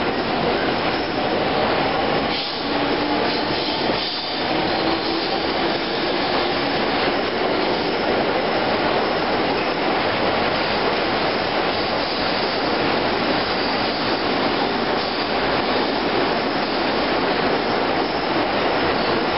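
Electric commuter train running past an underground platform at speed: a steady, loud rumble of wheels and cars, with a faint tone rising and falling a few seconds in.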